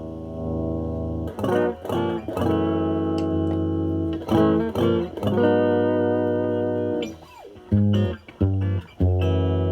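Semi-hollow electric guitar played through a Nobels ODR-1 overdrive pedal with its drive at zero, into a Marshall Valvestate amp's clean channel: chords struck and left to ring, a pause, a couple of short stabbed chords, then another ringing chord near the end.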